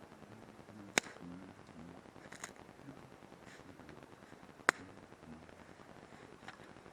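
Campfire wood popping: two sharp cracks about four seconds apart, with a few fainter pops between and after.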